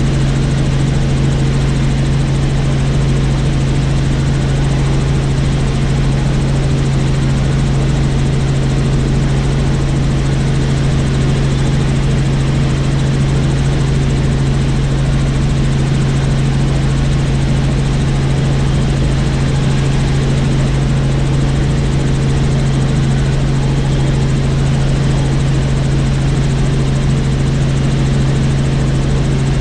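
Helicopter in flight: the rotor and engine make a loud, steady drone with a strong low hum that does not change.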